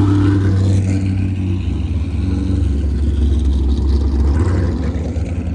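A loud car's engine and exhaust rumbling steadily at low revs, easing off slightly near the end.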